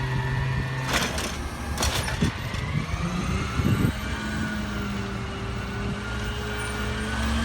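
Peterbilt 320 trash truck's diesel engine running, with two short sharp noises about a second in and again a second later. The engine pitch shifts around the middle, then climbs slowly near the end.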